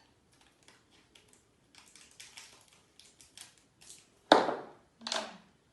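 Adhesive tape (durex) being handled and pulled off the roll to cut a piece: faint crinkles and taps, then two short ripping pulls of tape about four and five seconds in, the first the loudest.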